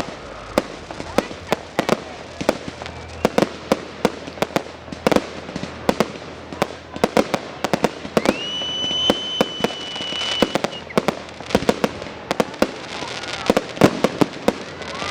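Fireworks going off: a rapid, irregular series of sharp bangs and cracks, with one high, steady whistle held for about two seconds in the middle.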